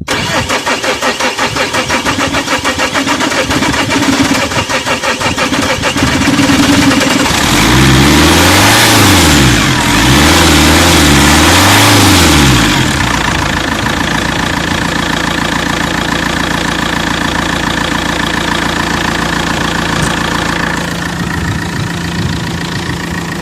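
Opel Zafira 1.9 CDTI four-cylinder diesel being started. The starter cranks with a pulsing rhythm for about six seconds before the engine catches, then the engine revs up and down several times and settles into a steady idle. The long cranking is the hard-starting fault the owners are trying to trace, still there after a new alternator, battery and EGR valve.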